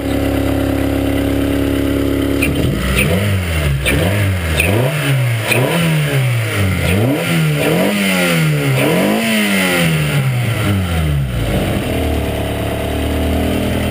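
Race car engine, cold-started moments earlier, idling and then blipped through a series of quick revs, each rising and dropping back, before settling to a steady fast idle.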